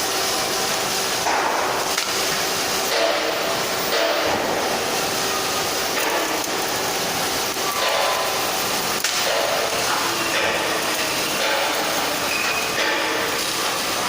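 Steady industrial workshop noise: a dense mechanical hiss and rumble with brief faint squealing tones and occasional light clicks.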